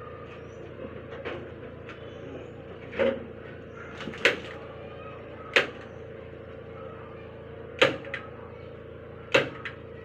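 A series of sharp knocks: five loud ones one to two seconds apart, with a few fainter ones between, over a steady hum.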